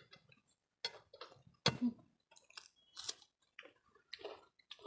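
Close mouth sounds of people eating a rice and curry meal: wet chewing and lip smacks, a string of short separate clicks about every half second, the sharpest about a second and a half in.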